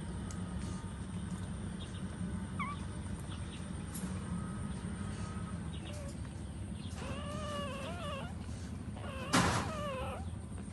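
Puppies whining and squeaking: short high squeaks throughout and a longer wavering whine about seven seconds in, with a sharp knock near the end, over a steady low rumble.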